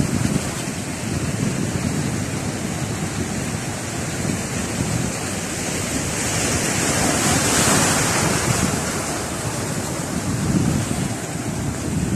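Sea surf breaking and washing along the shore, with wind rumbling on the microphone. One wave swells to a louder hiss about six to nine seconds in.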